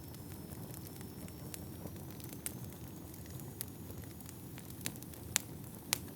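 Wood fire burning in a fireplace: a steady low rush of flames with scattered sharp crackles and pops, the two loudest near the end.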